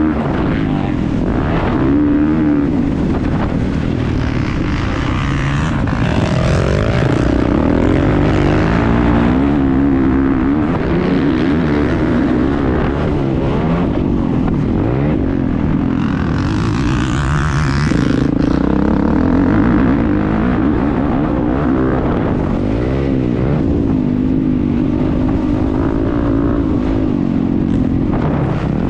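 Motocross motorcycle engine heard from a camera mounted on the bike, revving hard with its pitch rising and falling over and over as the rider accelerates, shifts and backs off through the track.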